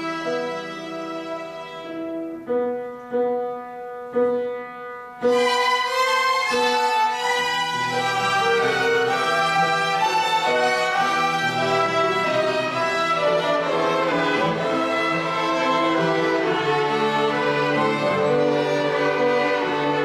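A violin ensemble playing: held notes at first, then a few separate short notes that die away, then about five seconds in the whole ensemble comes in louder with a full, busy passage.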